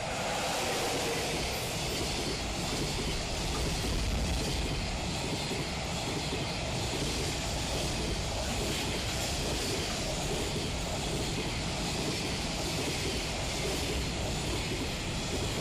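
JR freight container train passing at speed, its wheels running on the rails in a steady, continuous rumble and hiss.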